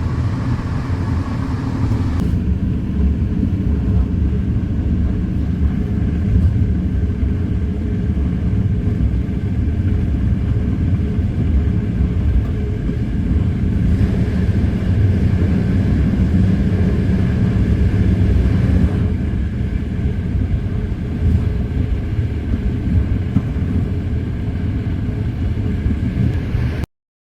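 Passenger train in motion, a steady low rumble of the running train heard from inside the cabin. It cuts off suddenly near the end.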